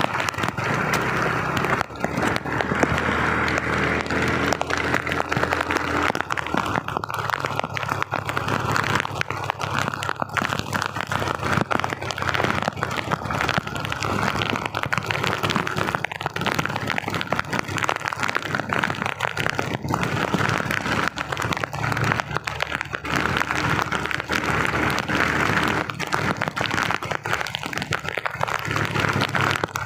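Heavy rain falling hard, a dense steady patter of drops with many small crackling hits close to the microphone, over a steady low hum.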